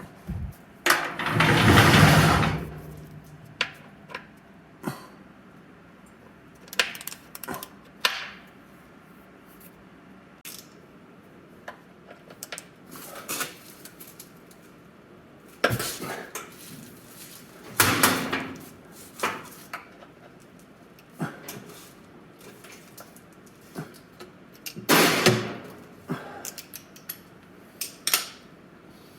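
Hand tools clinking and knocking on metal while the 8 mm hex oil drain plug is worked loose: scattered sharp clicks, with three longer, louder bursts of noise, about two seconds in, past halfway and near the end.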